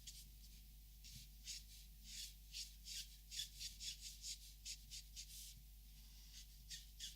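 Copic marker nibs rubbing across marker paper in quick, faint strokes, about two to three a second, with a pause of about a second near the end.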